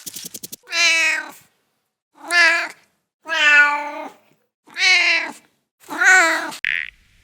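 A cat meowing five times, each meow a drawn-out call that rises and falls in pitch, with short pauses between them.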